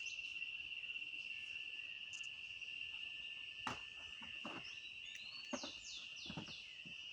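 Insects trilling in one steady, high-pitched drone. A few knocks come in the second half, and a quick run of short falling chirps sounds about five to six seconds in.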